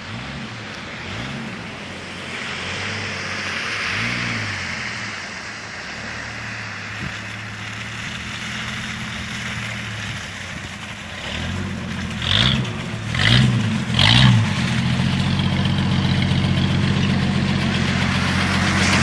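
1977 Jeep CJ5 engine running, its revs rising and falling again and again, then three quick sharp revs about twelve to fourteen seconds in, after which it settles into a steady drone.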